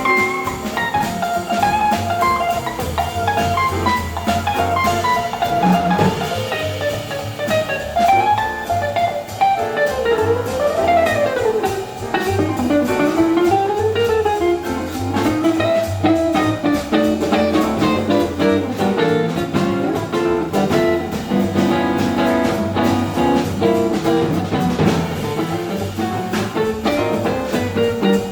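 Jazz quintet of flugelhorn, piano, guitar, double bass and drums playing live, a melodic line with quick runs moving over a stepping bass line and drums.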